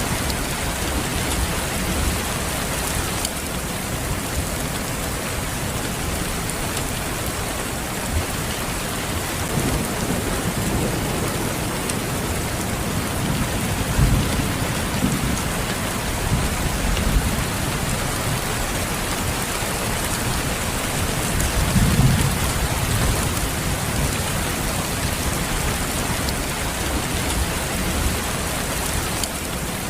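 Steady heavy rain falling on a surface, with several low rumbles of thunder swelling through the middle, the strongest about two-thirds of the way in.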